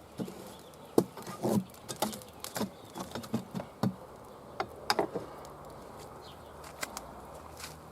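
Campfire wood burning with irregular crackles and sharp pops, busiest in the first few seconds and thinning out later.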